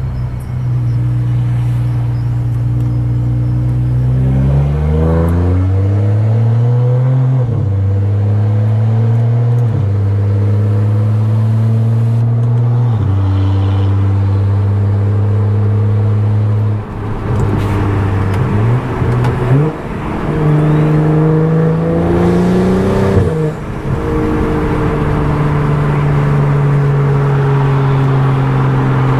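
Stage 2+ tuned BMW F10 535i turbocharged inline-six running through a loud exhaust while driving. The engine note holds steady for stretches and steps down in pitch at gear changes, with two short climbs under acceleration in the second half.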